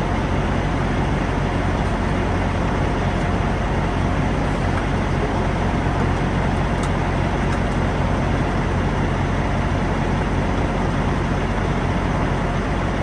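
Semi-truck under way: the diesel engine drones steadily with road noise, unbroken throughout.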